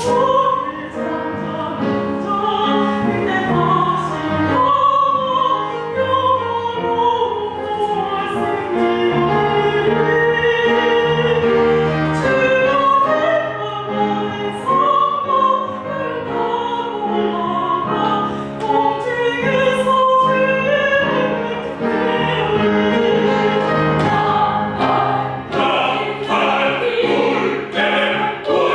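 Sacred choral music: voices singing sustained melodic lines over instrumental accompaniment.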